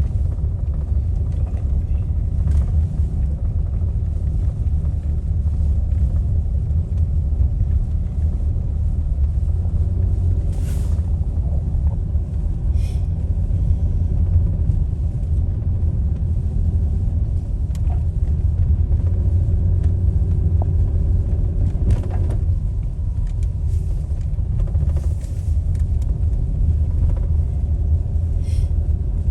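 Steady low rumble of a car on the road, with a few faint clicks and brief hisses.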